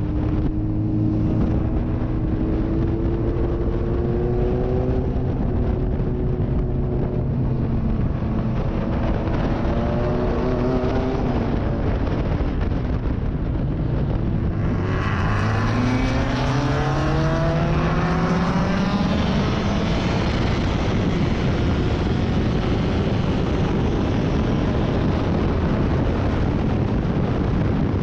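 Racing sports car engine at full throttle, its pitch rising over the first few seconds and falling back past the middle. From about halfway the revs climb steeply and the sound gets suddenly brighter, then it runs at high revs to the end.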